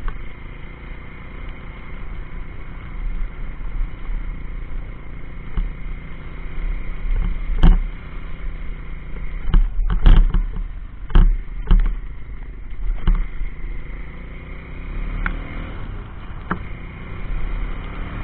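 A 140cc pit bike's single-cylinder four-stroke engine running under way, its note rising and falling with the throttle. Several sharp knocks sound about 8, 10 and 11 to 12 seconds in.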